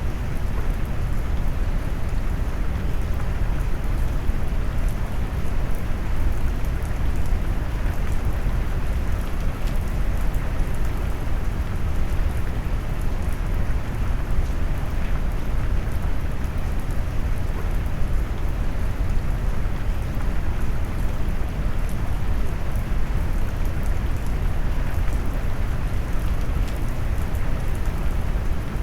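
Steady rain noise mixed with brown noise: a deep, even rumble dominated by the low end, with faint raindrop ticks on top.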